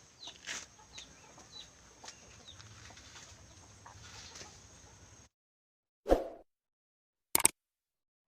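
A bird giving a run of short, falling chirps, about two a second, that cuts off abruptly about five seconds in. A single thump and a sharp click follow near the end.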